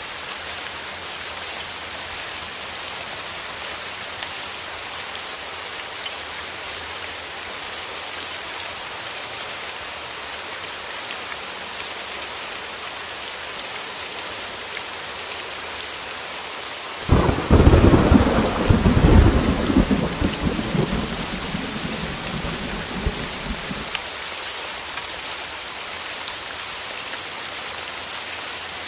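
Steady heavy rain hissing on a window, with a sudden clap of thunder a little past the middle that rumbles and dies away over several seconds.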